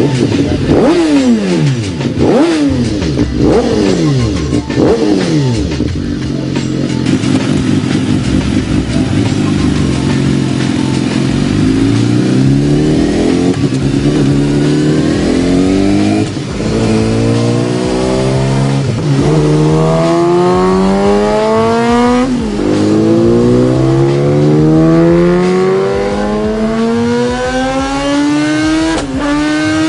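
2012 BMW S1000RR inline-four engine through a Two Brothers Racing full race exhaust: a few sharp throttle blips, a steadier stretch, then hard acceleration through the gears, the pitch climbing and dropping back at each of several upshifts.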